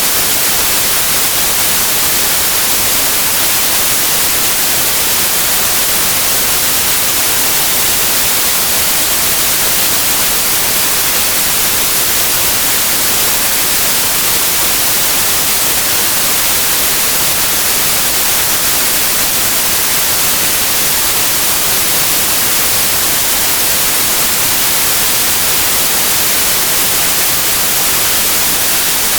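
Pure white noise: a steady, even hiss, loud and unchanging, brightest in the high end.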